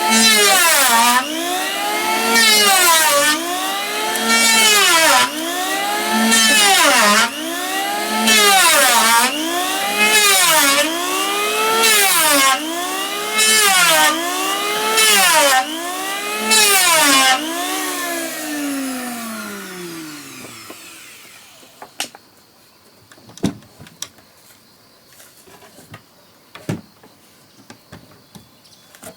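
Electric wood planer motor rising and falling in pitch about every two seconds as it is worked, with hissing cutting noise between the rises. Near the end it winds down in a long falling whine, followed by quiet with a few knocks.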